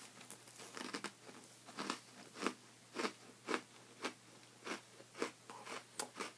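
A person chewing a crunchy Oreo sandwich cookie with mouth closed, a dry crunch about twice a second.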